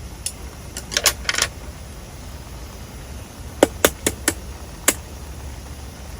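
A handful of sharp clicks and knocks, a short cluster about a second in and four or five crisper ones a little past the middle, over a low steady rumble.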